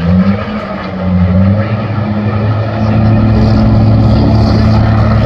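Heavy truck's diesel engine revving hard: the revs rise after a brief dip near the start and then hold high and steady for the second half.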